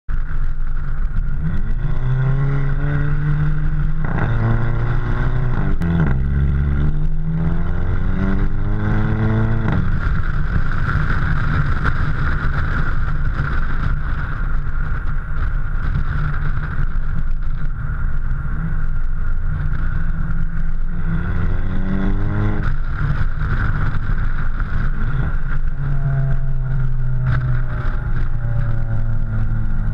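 Exhaust of a VW Beetle 2.0 TSI turbo four-cylinder with the centre silencer replaced by a dummy pipe, accelerating through several upshifts of its DSG gearbox. The pitch rises and drops back at each shift, with a short crack at the changes, then holds steady for about ten seconds before two more pulls near the end.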